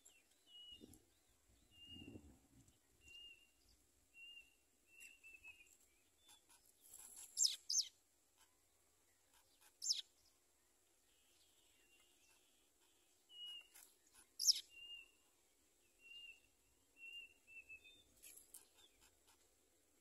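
Small bird chirping: a run of short, even chirps at about one a second, broken near the middle by three louder, sharp calls that sweep downward in pitch.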